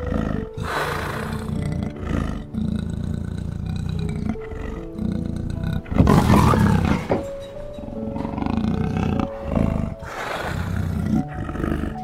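A big cat roaring several times, each roar about a second long, the loudest about six seconds in, over soft background music with held notes.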